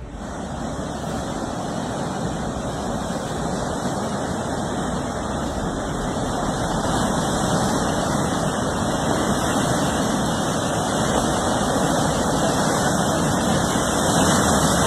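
Steady rushing noise of wind and surf on open water, slowly building in loudness.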